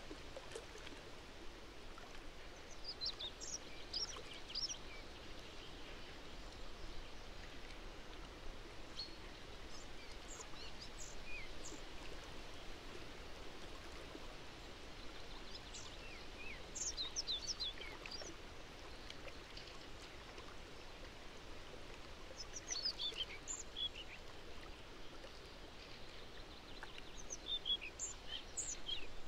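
A small songbird singing short phrases of quick high notes that fall in pitch, five phrases about six seconds apart, over a steady outdoor background hiss.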